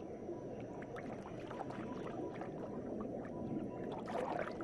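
Low, muffled water ambience with a steady rush and small scattered drips and ticks, like a shallow rain-fed pool.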